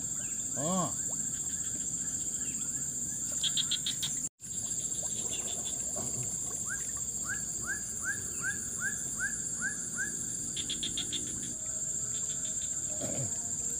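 Forest insect chorus: a steady high-pitched insect drone with pulsed cricket trills coming and going. Midway a run of about eight short rising calls repeats at a steady pace, and the sound drops out for an instant about four seconds in.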